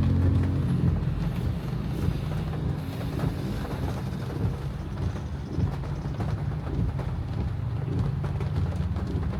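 Car driving in heavy rain: a low engine drone, strongest about the first second and again near the end, under a steady wash of rain and wet-road noise with many small ticks of drops hitting the car.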